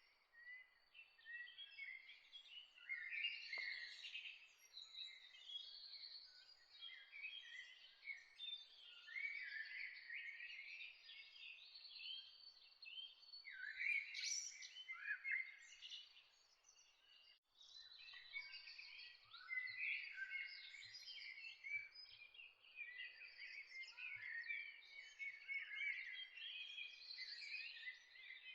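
Many birds chirping and singing at once, a dense chorus of short high chirps and trills over a faint steady hiss. It thins out for a moment a little past the halfway point, then carries on.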